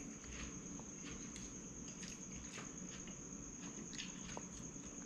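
Faint, irregular crunching and rustling of a toddler chewing and handling a leaf of lettuce, over a steady high-pitched whine and a low hum.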